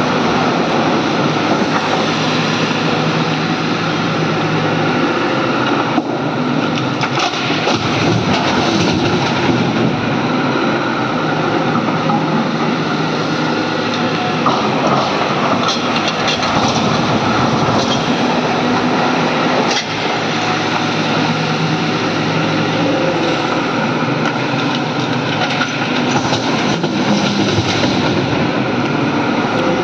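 Hydraulic excavator diesel engines running steadily under load, with a few sharp metallic clanks from the machines at work.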